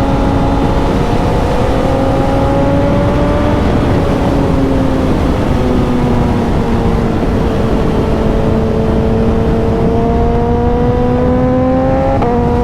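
Suzuki motorcycle engine under way, its note climbing slowly as the bike accelerates, then dropping abruptly with a gear change just before the end. Heavy wind rush runs under it.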